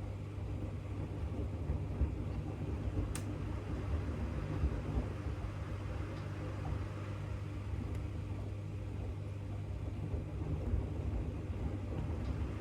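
AEG LR8FL160EX front-loading washing machine running mid-wash: a steady low hum and rumble from the motor and turning drum, with one short click about three seconds in.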